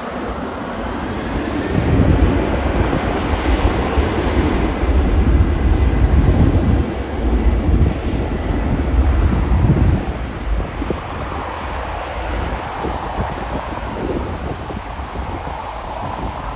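Airplane passing, its engine noise building about two seconds in and easing off after about ten seconds, with wind rumbling on the microphone.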